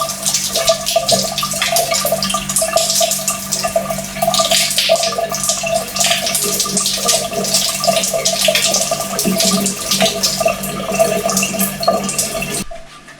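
Water running and splashing, as from a tap or shower, over a steady mechanical hum; it cuts off abruptly near the end.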